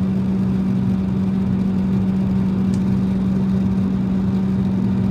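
Steady drone of an airliner cabin in flight: engine and airflow noise with a strong, even low hum.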